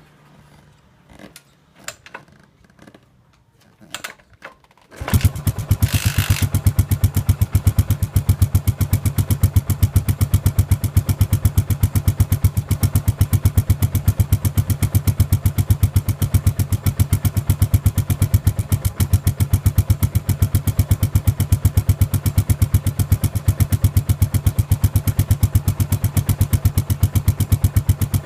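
Yamaha SR400 single-cylinder four-stroke engine breathing through a POSH Triumph-style aftermarket muffler. After a few faint clicks and knocks, it starts about five seconds in, with a short hissy burst just after, then idles steadily with an even beat of exhaust pulses.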